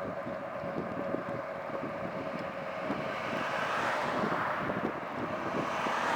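Wind rushing over the microphone while riding along a road, with a steady thin whine underneath. The rush swells about halfway through and again near the end.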